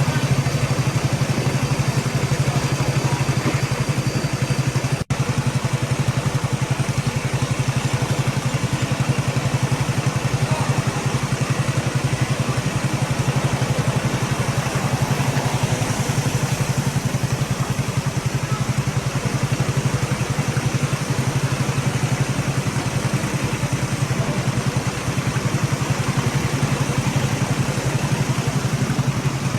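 An engine running steadily at idle, with a fine even pulsing, and a brief dropout about five seconds in.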